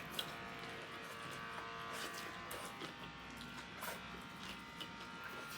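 Quiet eating sounds, with scattered small clicks and smacks of chewing and handling food, over a steady electrical buzz that fades slightly after the first second.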